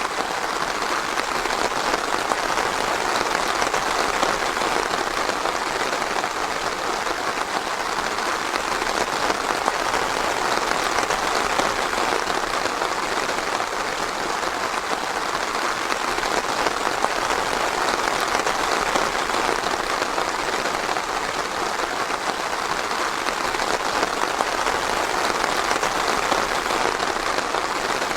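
Steady rain falling on forest foliage and ground, an even, unbroken patter with no thunder.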